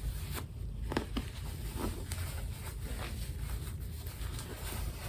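Doll clothes being handled while dressing a baby doll: light fabric rustling with a few short soft taps and clicks scattered through, over a steady low hum.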